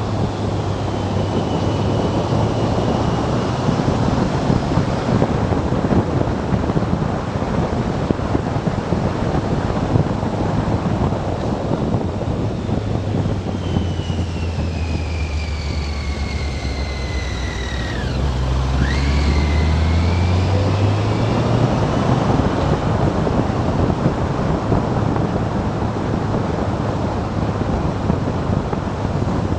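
Motorcycle riding along at speed, heard from on board: wind rushes over the microphone above the engine's steady hum. About halfway through, the engine note drops as the bike slows, with a high whine falling in pitch alongside it, then climbs again as it accelerates.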